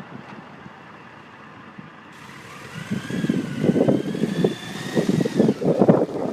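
Gusty wind hitting the microphone ahead of a thunderstorm, rising about three seconds in to loud, uneven rumbling buffets. A faint whine rises, holds and falls away above the wind partway through.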